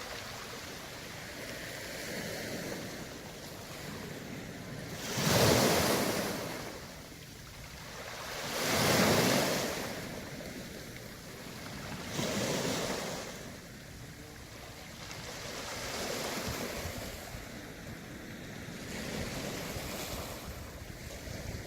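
Waves breaking on a beach of round pebbles, surging in about every three and a half seconds, five times, and rattling the stones as they wash in and out. The wave about five seconds in is the loudest.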